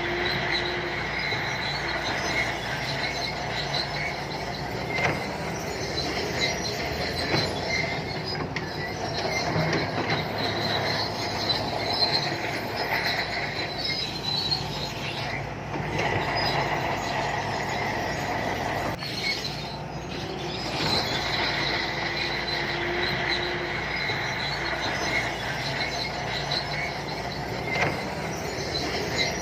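SANTUI crawler bulldozer working, its diesel engine running steadily while the steel tracks squeal and clank continuously.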